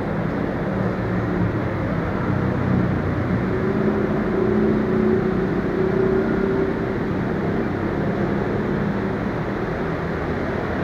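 Steady ambient noise of a busy railway station hall: an even rumble and indistinct murmur, with faint held tones in the middle of it.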